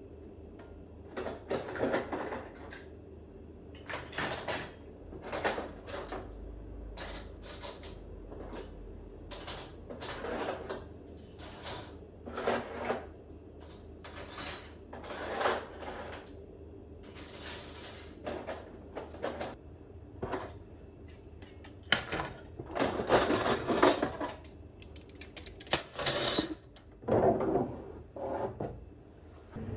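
Dishes and kitchen items clinking, knocking and scraping as they are handled and set down, in irregular bursts with a louder cluster a little past the middle.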